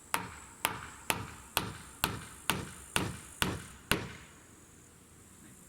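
A tool striking wood over and over, about two blows a second, nine in all, stopping about four seconds in. Insects chirr faintly behind.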